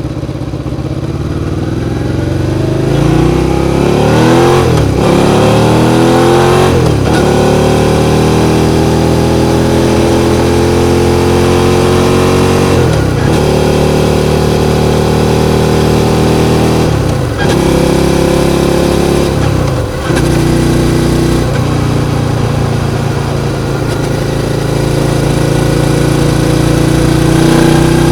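Suzuki SV650's V-twin engine pulling hard, its pitch climbing and then dipping sharply about five times, as with gear changes under acceleration, before running steadily and slowly rising near the end.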